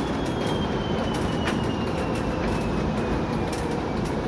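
Cab noise of a TEP70 passenger diesel locomotive under way: the 16-cylinder diesel and running gear rumble steadily, with a few sharp clicks and knocks. Over it the turbocharger's high whistle slides slowly down in pitch as the turbine spins down.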